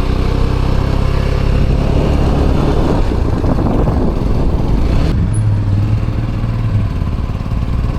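Motorcycle engine running while riding at a steady pace, under a constant rush of wind and road noise.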